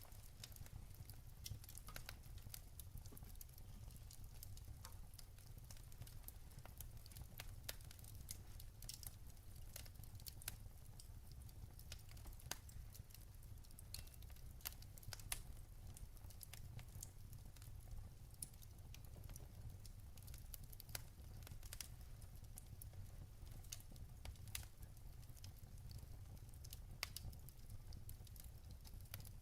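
Faint log fire crackling, with scattered sharp pops over a steady low rumble.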